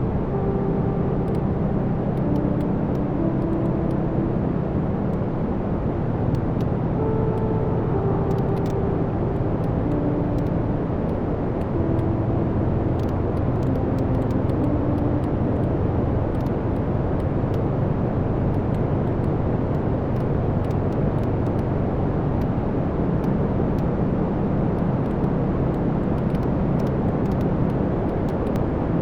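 Wood fire burning in a fireplace: a steady low rumble with small crackles and pops scattered throughout. Through roughly the first half, soft stepped tones fall in a short pattern that repeats.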